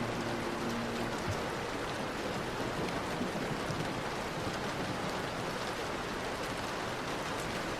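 Steady rain falling, an even hiss of many drops, with the last low notes of soft music dying away about a second in.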